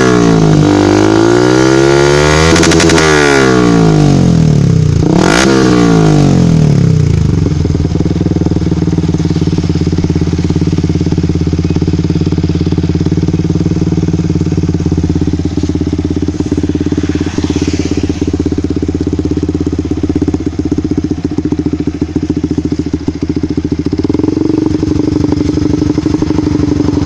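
Yamaha Vixion Lightning's single-cylinder four-stroke engine running through an aftermarket B Pro exhaust. It is revved up and back down twice, then settles into a steady idle. Its fuel mixture has been set richer, with the CO raised to +22.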